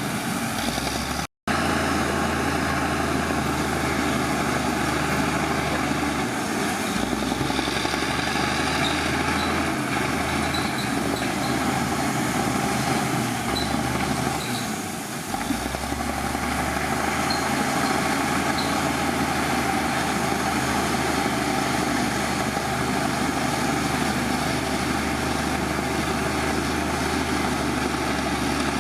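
Heavy diesel earthmoving machinery running steadily, its engine note shifting several times. The sound cuts out for a split second about a second and a half in.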